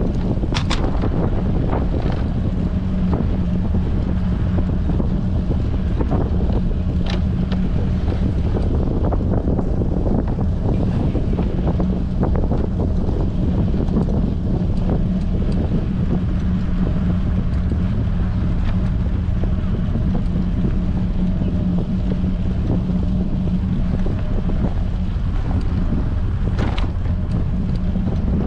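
Wind buffeting a bike-mounted action camera's microphone while riding in strong wind: a steady low rumble with a constant low hum underneath. A few short clicks come through, about half a second in, around seven seconds in and near the end.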